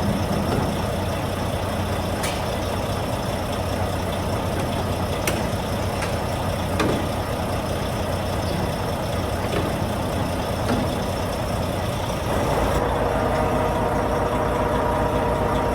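Semi-truck diesel engine running steadily, with a few light clicks. About three-quarters of the way through, a steadier, higher engine note comes in.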